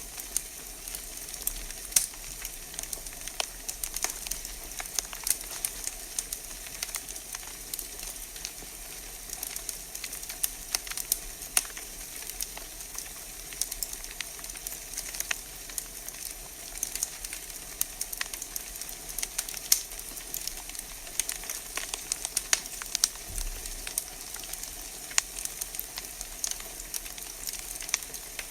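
Wood fire burning in a fireplace: a steady hiss with frequent irregular pops and crackles from the burning logs.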